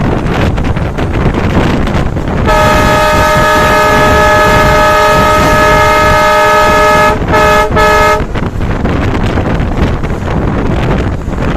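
Alco WDP3A diesel locomotive's air horn sounding one long blast of several tones at once, then two short blasts, over the rushing wind and running noise of the train at speed.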